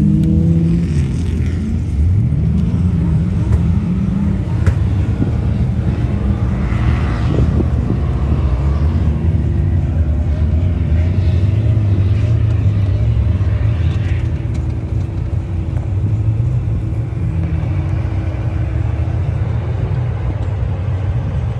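Engines of several 4x4s revving as they climb a steep sand dune: a steady low rumble with a few rises and falls in pitch.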